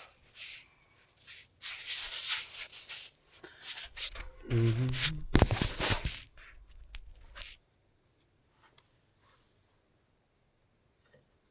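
Irregular scraping and rubbing handling noises with a few sharp clicks, as hands work at a small cap on the excavator engine, with a short grunt about four and a half seconds in. The noises stop after about seven and a half seconds.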